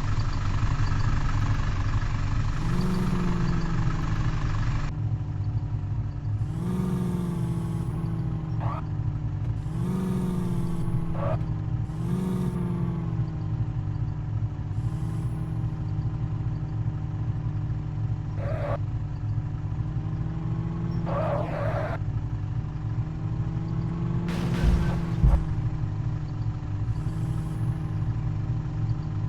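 Truck engine running, revving up briefly several times, with short hisses of air at intervals and a few brief squeals.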